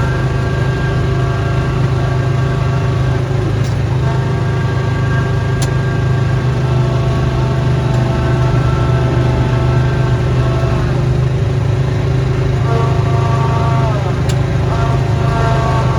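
Snowblower engine running steadily under load, with a higher whine that fades in and out and dips in pitch a couple of times.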